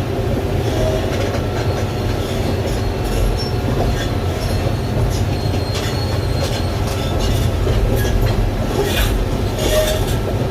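Doosan 420LC crawler excavator travelling: a steady low diesel engine drone with the steel tracks clanking and giving short squeals.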